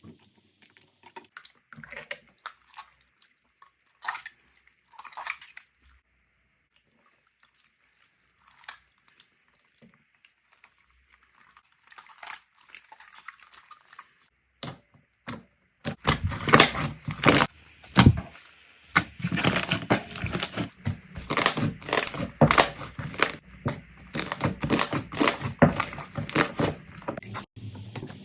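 Slime being played with by hand: scattered soft wet squishes and clicks, then from a little past halfway a dense, louder run of sharp crackling clicks as the slime is pressed and worked.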